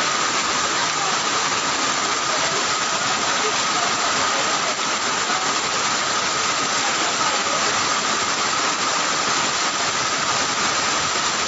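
Heavy tropical downpour with floodwater flowing across a street: a steady, unbroken hiss of rain and running water.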